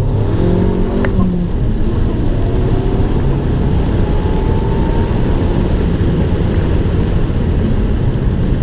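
Abarth 595 Turismo's turbocharged 1.4-litre four-cylinder engine driven hard on track. The engine note shifts in the first second or so, then the revs climb steadily for a couple of seconds, over a constant rumble of road and wind noise.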